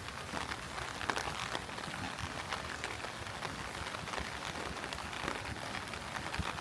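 Heavy rain falling, a steady hiss with many close, sharp drop ticks and splashes scattered through it.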